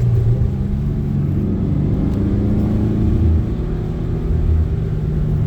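Car engine and road noise heard from inside the cabin while driving, a steady low drone with engine tones that shift slightly in pitch.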